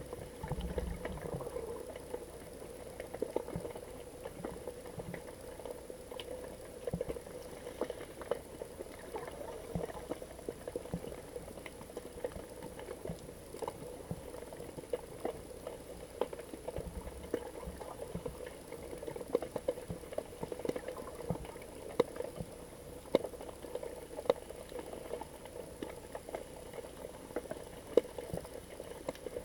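Underwater ambience picked up through a GoPro's waterproof housing: dense, irregular crackling and clicking over a steady low hum.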